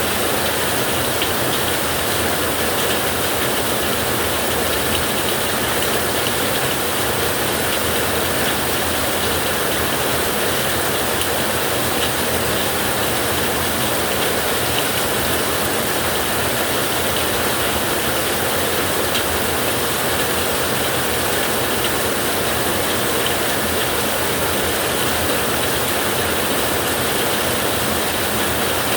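Steady heavy rain falling on a metal roof: an even, dense hiss of drops with many fine ticks, unchanging throughout and with no thunder crack.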